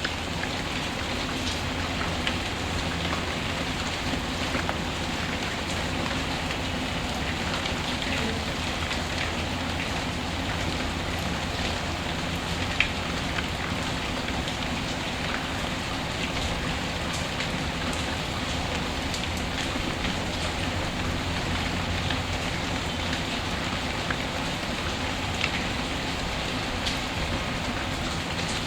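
Steady rain ambience with scattered faint crackles and clicks, as of a fireplace burning, one sharper crackle about halfway through.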